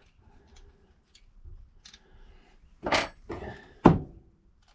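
Metal cover being fitted onto a lever safe lock: a few light metallic clicks, then three louder knocks and clatters about three seconds in, the last the sharpest.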